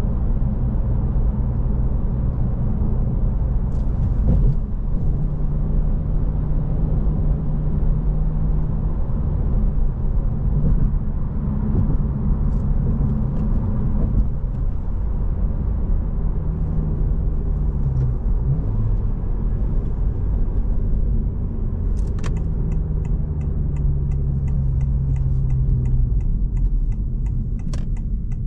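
Inside the cabin of a 2025 Honda Civic Si, its 1.5-litre turbocharged four-cylinder hums under road rumble, its tone shifting pitch a few times as the car is driven through the gears. In the last several seconds a rapid, regular ticking starts, typical of the turn-signal indicator.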